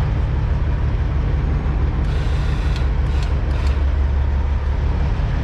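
Semi truck's diesel engine running at low speed, a steady deep rumble heard from inside the cab while backing. A brief airy hiss comes about two seconds in and lasts under two seconds.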